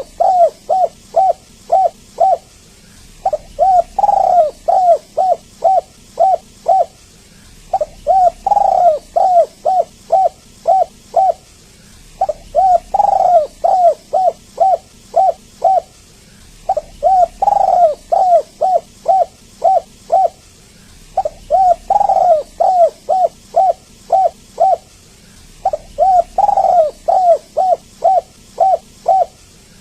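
Spotted dove (tekukur/derkuku) cooing in repeated phrases: each phrase is a quick run of short coos with one louder, drawn-out coo, and a new phrase starts about every four and a half seconds. It is a lure recording meant to draw other doves into calling.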